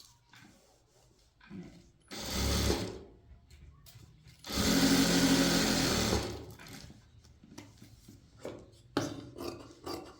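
Sewing machine running in two runs, a short one and then a longer one of about two seconds, with small clicks and knocks between and after.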